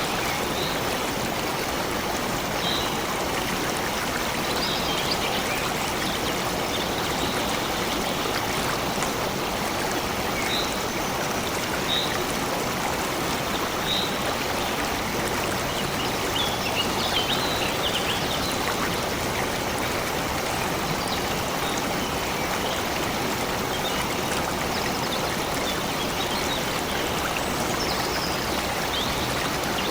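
Stream water flowing steadily, a continuous rushing and trickling. Faint, short high bird chirps come through a handful of times over it.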